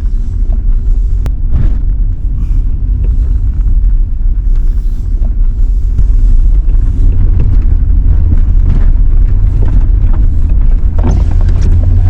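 Low, steady rumble of a truck's engine and tyres heard from inside the cab while driving, with scattered light clicks and knocks over it.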